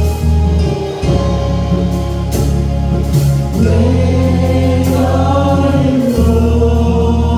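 Gospel choir singing with band accompaniment: a steady bass line under sustained held chords.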